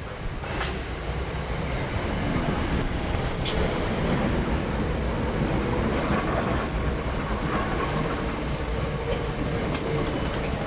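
Networker electric multiple unit (Class 465/466) running through the station with a steady wheel-and-rail rumble. A few sharp clicks cut through it, and a faint steady whine comes in during the second half.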